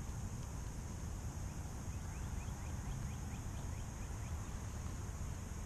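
Steady low rumble of wind on the microphone. For a couple of seconds in the middle, a bird calls a quick series of about a dozen short high notes, roughly five a second.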